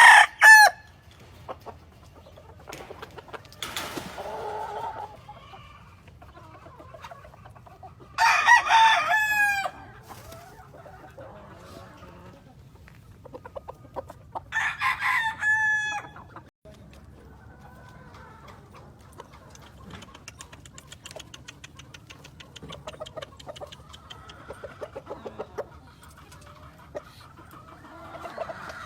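Roosters crowing: two long crows, one about eight seconds in and another about fourteen seconds in, with quieter clucking and calls from other chickens between them.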